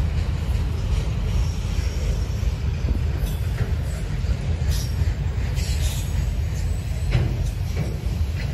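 Freight train cars rolling past at close range: a steady low rumble, with scattered sharp clicks and knocks from the wheels on the rails.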